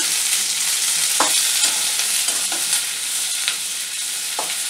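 Sliced onions, green chillies and cashews sizzling in hot oil in a stainless steel kadai, being sautéed with a metal spatula that scrapes and clinks against the pan about five times.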